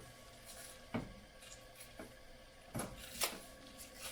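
Faint handling noises: a few light knocks and clicks, one about a second in and two close together near the end.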